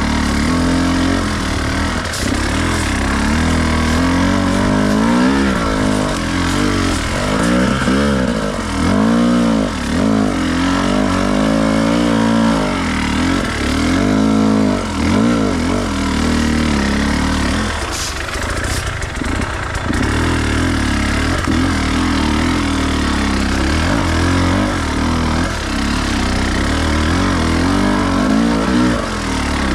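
Enduro dirt bike engine running under a working throttle off-road, its pitch repeatedly rising and falling as it revs up and drops back, with steadier stretches near the end.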